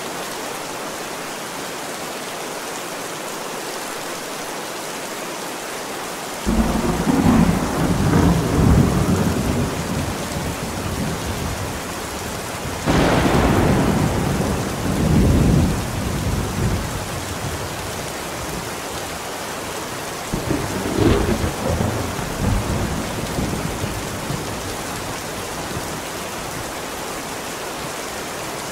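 Steady heavy rain with three peals of thunder rolling through it: a long rumble about six seconds in, a sharper crack that trails into rumbling about halfway through, and a shorter rumble a few seconds later.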